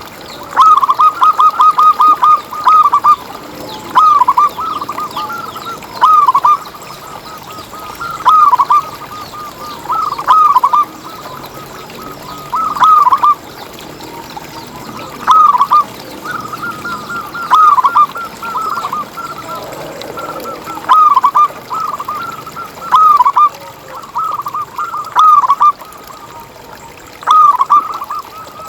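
Zebra dove (perkutut) cooing: a phrase of quick looping coos repeated about every two seconds, with a steady hiss underneath.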